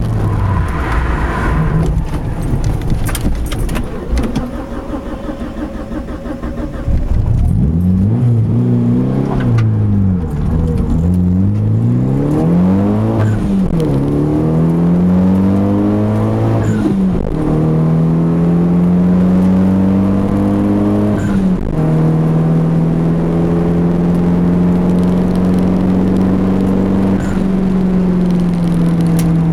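Mitsubishi Eclipse GSX's turbocharged four-cylinder engine heard from inside the cabin while lapping a circuit. The revs rise and fall several times with sudden drops at gear changes, then hold high and steady for a long stretch.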